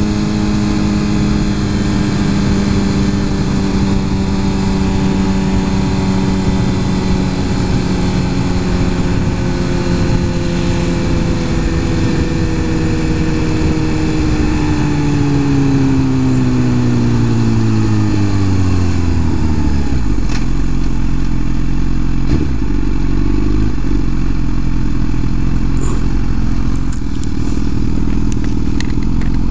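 Suzuki GSX-R 1000 inline-four engine running at a steady speed. About fourteen seconds in its note falls smoothly as the bike slows, and it settles into a low, steady idle for the last ten seconds.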